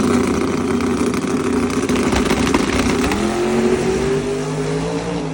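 Drag-racing car engine at full throttle, loud and continuous, its pitch climbing over the second half as the car accelerates down the strip.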